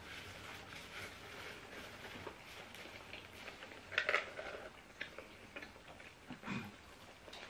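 Faint eating sounds: chewing and small wet mouth clicks and smacks from people eating fries and a sandwich. A few louder clicks come about four seconds in, and again a little after six seconds.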